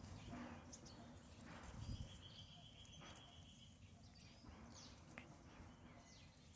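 Faint jungle ambience: scattered short bird chirps and one high, steady note held for about a second and a half, over a low rumble, with a few soft rustles in the first half.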